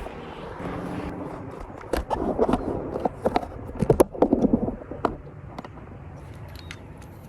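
Kayak being paddled: irregular knocks and splashes of paddle strokes, loudest in clusters about two and four seconds in.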